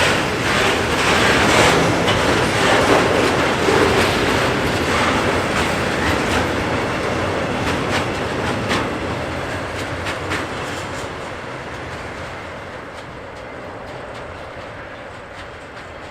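Train rolling past and moving away, its wheels clacking over rail joints; the rumble fades steadily.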